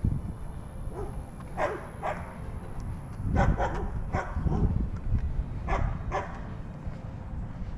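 Dogs barking in short, separate barks, about half a dozen through the stretch, over a low rumble.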